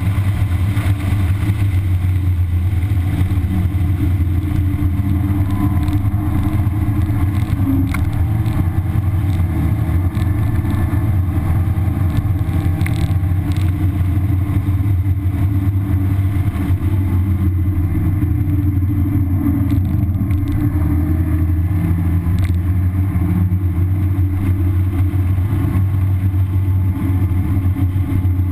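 1991 Mazda Miata's four-cylinder engine on its stock exhaust, heard from inside the open cabin as a steady low drone while the car is driven hard around a road course.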